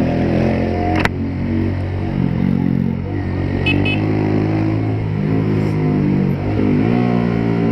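Motorcycle engine running through a Pro Tork Competition aftermarket exhaust while riding, its pitch shifting a little as the throttle changes, with a sharp click about a second in.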